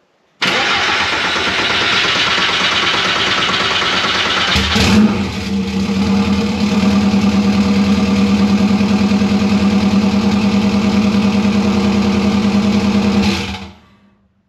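A 1973 VW Super Beetle's swapped-in turbocharged Subaru engine is cranked by its newly fitted Jetta TDI starter for about four seconds. It then catches and runs at a steady idle, and stops near the end. The new starter turning the engine over and starting it is the sign that the starter fix has worked.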